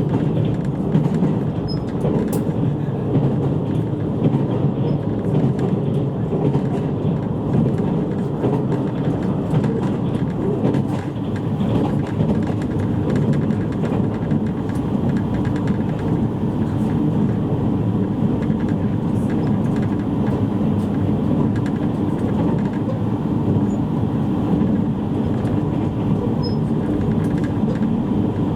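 JR East E653 series electric train running steadily at speed, heard from inside a passenger car: a continuous rumble of wheels on rail with a faint steady hum.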